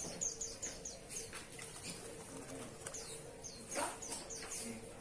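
Oriental magpie-robin (kacer) singing quick runs of short, high, falling whistles, two runs with a pause between. A brief rushing noise comes about four seconds in.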